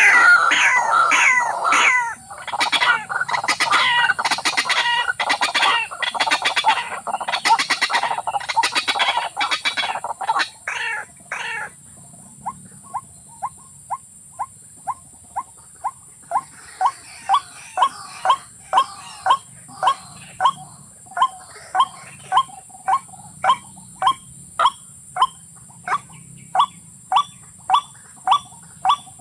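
Bird calling: a dense run of loud calls, then from about twelve seconds in a steady series of short, sharp notes, about two a second, growing louder, over a steady high hiss.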